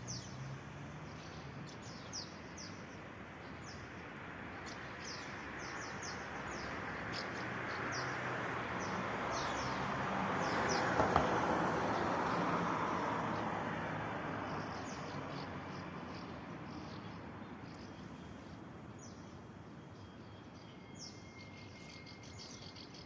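Small birds chirping at the nests on a building facade, a steady run of short high chirps, over a wash of city street noise that swells to its loudest about halfway through and then fades.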